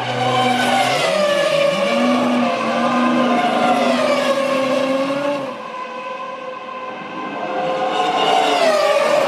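Formula One cars' 3-litre V10 engines at racing speed, their high-pitched notes climbing and dropping as they rev and shift through the gears. The sound eases off a little past halfway, then builds again near the end.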